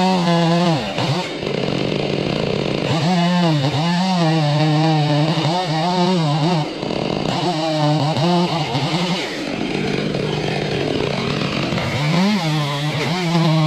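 Chainsaw engine running at high revs, its pitch wavering, alternating with stretches of rougher, noisier sound as the saw is worked in the cut.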